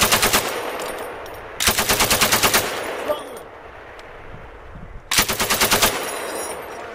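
M240G 7.62 mm medium machine gun firing short bursts of rapid shots. One burst ends just after the start, then two more bursts of about a second each come about 1.5 s and 5 s in, each trailing off in a long echo.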